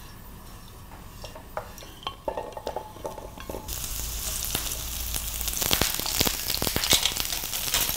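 A few light taps, then about four seconds in, halved shallots and garlic cloves start sizzling and crackling in hot olive oil in a grill pan, growing louder.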